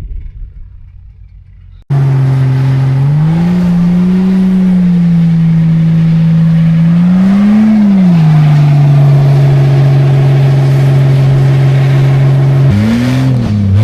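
Old Jeep Cherokee engine held at high revs under full throttle, its pitch rising briefly twice, then dropping and wavering near the end. The mud tyres are spinning hard enough to warm up. The engine comes in suddenly about two seconds in, after a faint low rumble.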